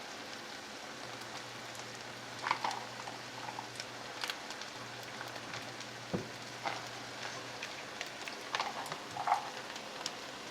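Chicken and green onion pancake batter frying in oil in a pan: a steady sizzle broken by scattered crackles and a few louder pops.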